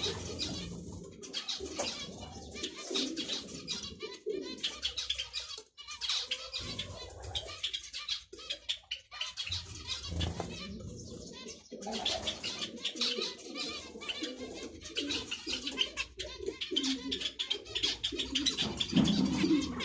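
Zebra finches calling and chattering, a dense run of quick high notes, with lower bird calls mixed in that grow strongest near the end.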